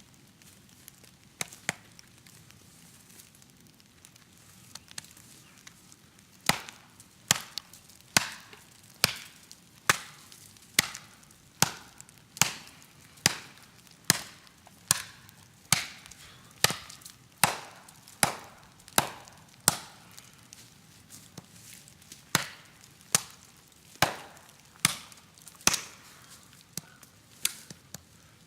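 CPM 3V steel golok chopping into the trunk of a dead, dry tree: a steady run of sharp chops, a little more than one a second, beginning about six seconds in after a few lighter knocks.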